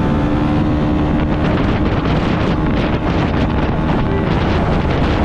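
Yamaha MT-125 motorcycle's single-cylinder engine running on a ride, mixed with heavy wind rush on the microphone. The engine's steady tone is clear at first, then sinks into the wind noise after about a second.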